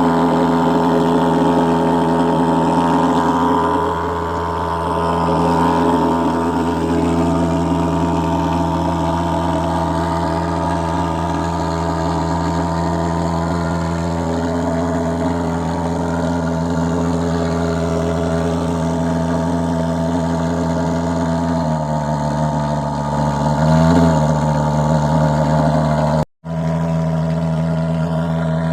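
Fogging machine engine running with a steady droning buzz. Its pitch steps slightly lower about two-thirds of the way in, and the sound cuts out for an instant near the end.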